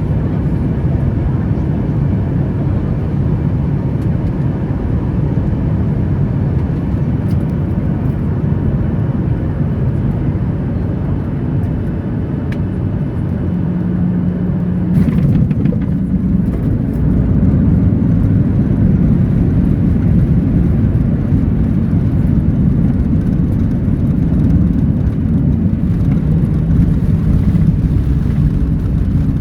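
Steady jet engine and airflow noise heard inside the cabin of a Boeing 737-800, growing louder a little over halfway through.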